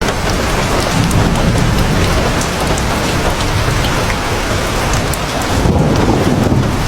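Heavy rain falling steadily, with a low rumble underneath that swells a little near the end and scattered sharp drop ticks on top.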